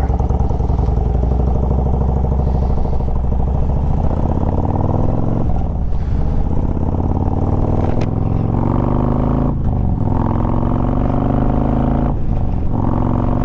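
Harley-Davidson Road Glide V-twin accelerating through the gears. The engine note climbs in each gear and drops back briefly at three shifts, about six, ten and twelve seconds in.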